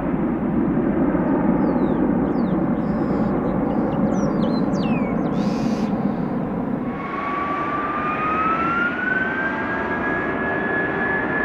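Aircraft turbine engines running with a steady roar. About seven seconds in the roar eases and a whine rises in pitch, then holds steady.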